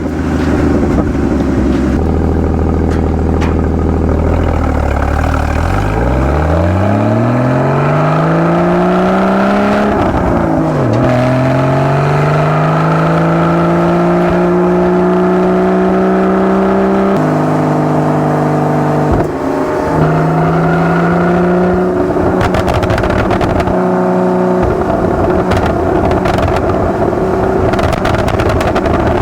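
Porsche Boxster 981 flat-six engine accelerating hard, its pitch rising steeply, then dropping at an upshift about ten seconds in. It climbs again through the revs and steps through a few more gear changes before running at a steady cruise.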